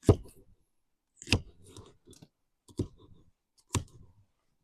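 A knife chopping a red bell pepper into chunks: four sharp chops about a second apart, each with a short crunch as the blade goes through the pepper.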